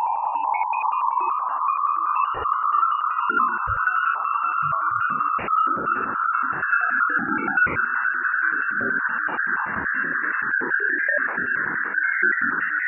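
Space wave recording converted to sound: a hissing, whistle-like band that rises slowly in pitch, with scattered crackles and pops.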